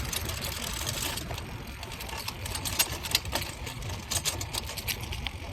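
Bicycle chain and gears clicking and rattling irregularly while being ridden, over a steady low rumble of wind and tyres.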